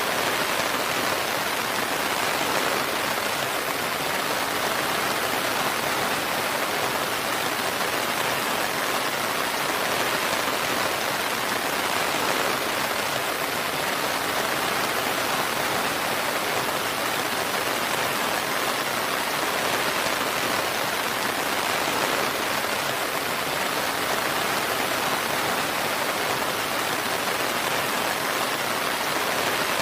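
Steady rain falling, an even patter of drops without a break.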